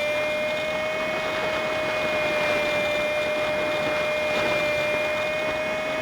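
Honda Super Cub 50 engine at a steady cruise, heard on a dashcam recording played at five times speed, so it comes out as a steady high-pitched whine over a hiss of wind and road noise.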